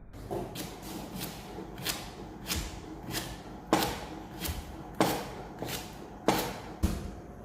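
Knife chopping on a cutting board: a steady run of sharp strokes, about one every 0.6 seconds.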